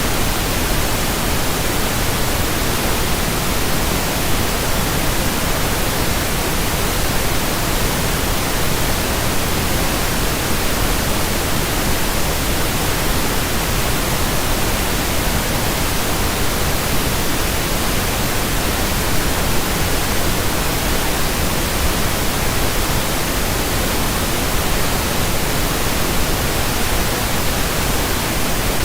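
Pink noise: a steady, even hiss spread across all pitches, with no changes.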